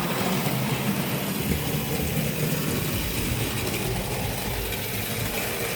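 Tri-ang clockwork toy train locomotive running fast round the track, its wound-up spring motor and gears whirring steadily.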